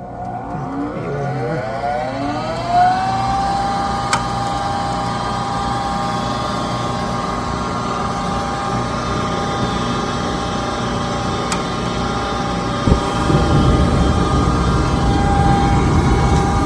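Gas furnace starting its cycle: the draft inducer motor spins up with a rising whine that levels to a steady hum after about three seconds. Near the end a thump comes and a low rushing sound builds, the burners lighting after the igniter and flame sensor were cleaned.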